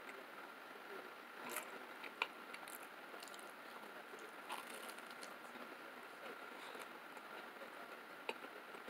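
Faint chewing and mouth sounds of a person eating a slice of pizza, with a few small sharp clicks over a steady low hiss.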